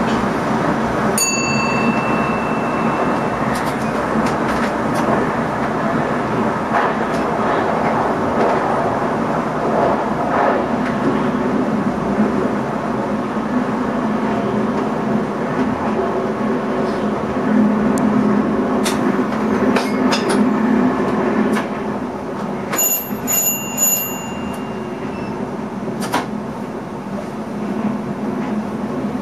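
NS ICM electric multiple unit heard from its driving cab while running: steady wheel and traction noise with scattered clicks from the track. About a second in there is a short high tone, and near the end a few rapid high beeps.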